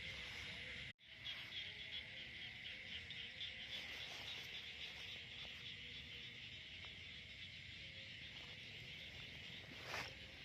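Steady chorus of insects, a high continuous trill with a fast pulsing, cut off to silence for a moment about a second in. A single sharp click near the end.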